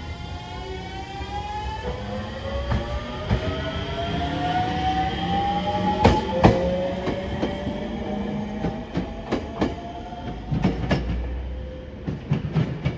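JR Shikoku 7000 series electric train pulling away, its motors whining in several tones that glide upward as it gathers speed. Sharp wheel clacks come about six seconds in, then a run of clacks over the rail joints and points as it moves off.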